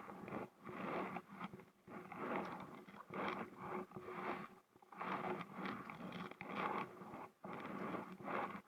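Kayak paddle strokes: water swishing off the paddle blades in irregular bursts about once a second.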